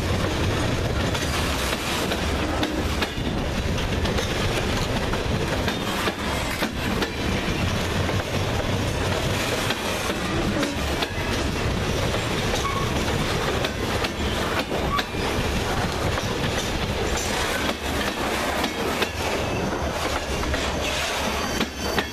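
Freight train of covered grain hopper cars rolling past close by: a steady rumble of steel wheels on rail, with many sharp clicks as the wheels cross the rail joints.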